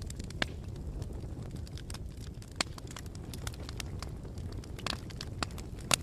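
Wood bonfire burning with a steady low rumble of flames, crackling and popping at irregular intervals; the loudest pop comes just before the end.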